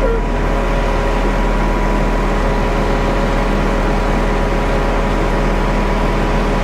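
Concrete mixer truck's diesel engine running steadily, with the drum sped up to discharge concrete, a low rumble with a few steady tones over it.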